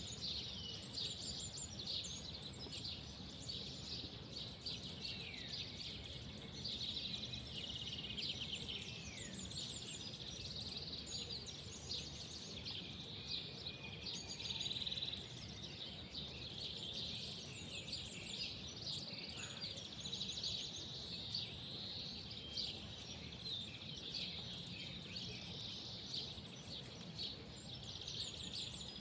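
Many small birds chirping and twittering continuously, with quick trills and short falling whistles, over a faint steady low background rumble.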